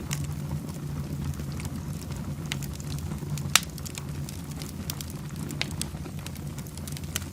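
Fireplace fire burning with a steady low rumble of flames and scattered crackles and pops; the loudest pop comes about three and a half seconds in.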